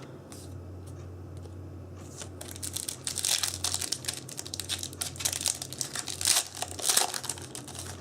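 Foil booster pack wrapper being torn open and crinkled. The rustling starts about two and a half seconds in and keeps going until near the end.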